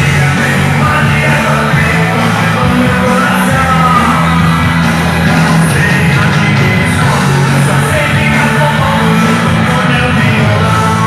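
Loud music with singing over heavy, sustained bass, played through a car-audio sound trailer (carretinha de som).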